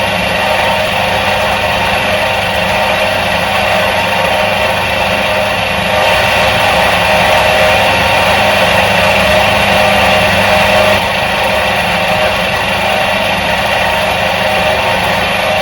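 Electric motor of a 1977 Soviet washing machine running steadily: a continuous mechanical hum and whir. It grows slightly louder for a few seconds in the middle.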